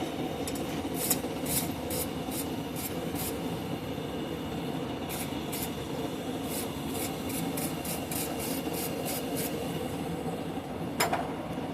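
Rhythmic scraping or rubbing strokes on the metal stock, about two a second, in two runs. Under them is the steady running noise of the shop's forge.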